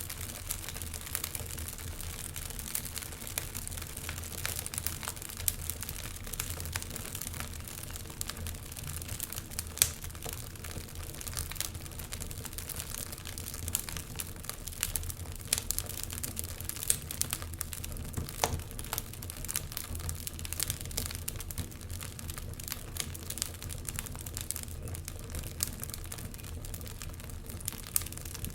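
Wood fire crackling: irregular sharp pops and snaps over a steady low rumble, with one louder pop about ten seconds in.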